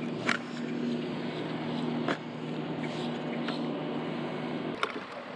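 Minn Kota electric trolling motor humming steadily as it holds the kayak in place on spot-lock, cutting off near the end. A few sharp ticks sound over it.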